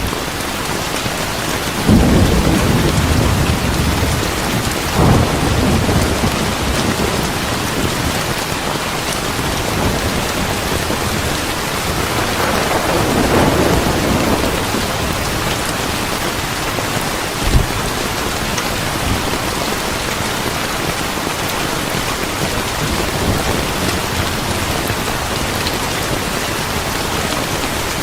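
Steady heavy rain with rolls of thunder: a low rumble about two seconds in, another around five seconds, and a longer swell around the middle. A single sharp crack comes a little past the middle.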